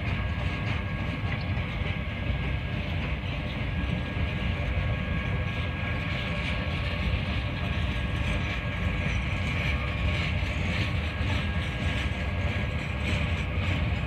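Norfolk Southern Triple Crown RoadRailer trailers rolling past on their rail bogies: a steady rumble of steel wheels on rail, with a faint steady ringing whine and light clicks over the rail joints that come more often in the second half.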